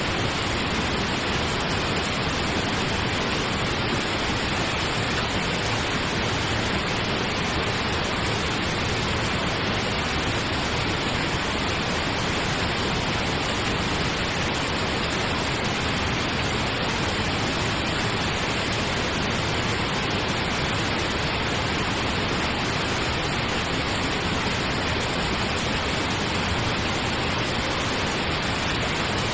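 Steady pink noise, an even, unchanging hiss with no breaks.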